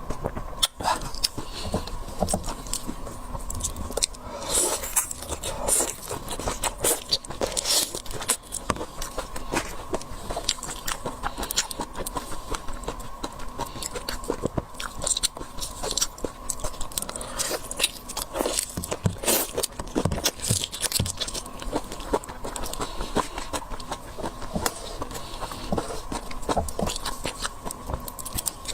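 Close-miked eating of seafood: repeated biting and chewing with crunches and wet clicking crackles, in an uneven rhythm.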